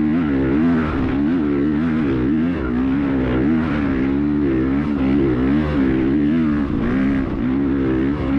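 Vehicle engine running hard without a break, its pitch rising and falling again and again as the throttle is worked.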